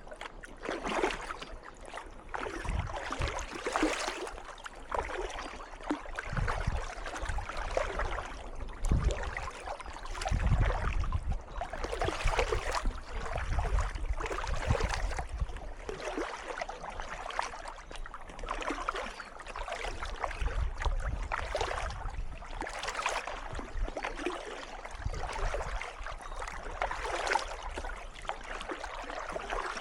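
Kayak paddle strokes dipping and splashing in calm water, a stroke about every one and a half to two seconds, with a faint trickle of water between them.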